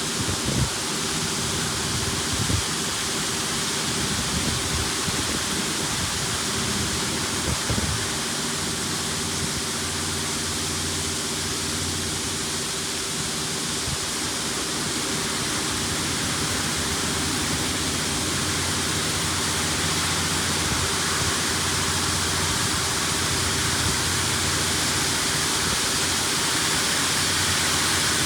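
LaserWash G5 touchless car wash spraying water onto the car, a steady rushing hiss heard from inside the car, with a low hum underneath and a few light knocks in the first several seconds.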